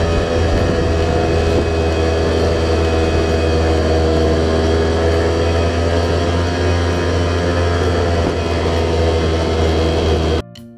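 A steady, loud engine drone with a heavy low hum and several steady tones above it, unchanging until it cuts off abruptly near the end.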